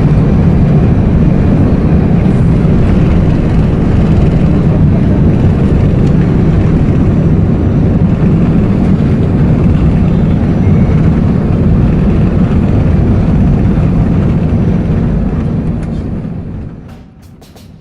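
Steady, loud noise of an Airbus A380 in flight heard from inside the cabin: the engines and airflow make a low, even rumble that fades out near the end.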